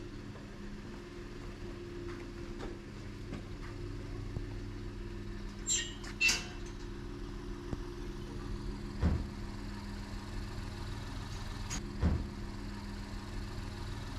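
A vehicle running with a steady low hum, with scattered light clicks, two short high squeaks about six seconds in, and two thumps later on.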